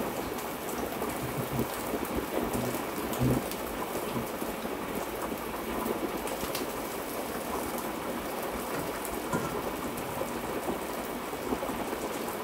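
Sole fish frying in hot coconut oil: a steady, dense sizzle with fine crackling throughout.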